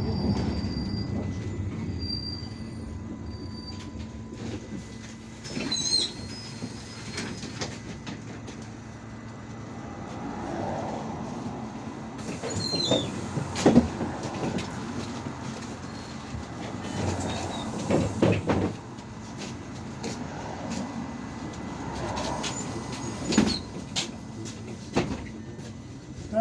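Inside an IVECO Urbanway 18M articulated city bus on the move: the steady drone of the engine and running gear, with rattles and knocks from the body and short high squeaks from the interior fittings every few seconds.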